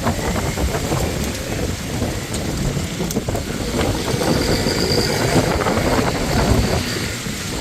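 Strong storm wind buffeting the microphone, a continuous low rumble.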